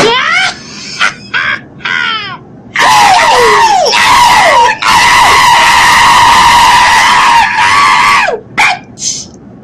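A person screaming in a very high pitch: several short shrieks that fall in pitch, then one long held scream from about three seconds in to about eight, followed by a few more short shrieks.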